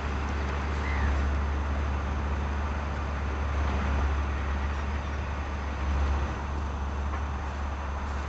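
Lamborghini R7 200 tractor's engine running steadily while ploughing.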